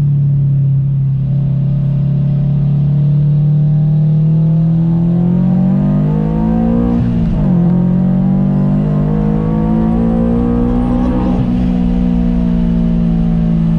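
Supercharged 2018 Subaru BRZ's flat-four engine, with catless header and single-exit exhaust, pulling through a gear with the revs slowly rising. The pitch drops at a gear change about halfway through, then climbs again and holds, heard from inside the car.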